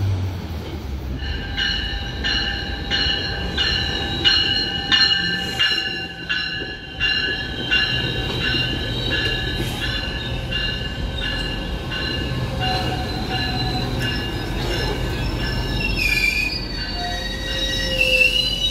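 GO Transit bilevel commuter train running in along the platform. A high ringing tone pulses about twice a second for the first several seconds, then holds as a steadier high squeal over the low rumble of the passing cars.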